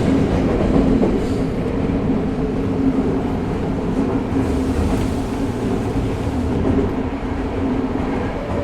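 Tokyo Metro 05 series subway car running through a tunnel, heard from inside the car: a steady rumble of wheels on rail with a low, even hum, easing slightly towards the end.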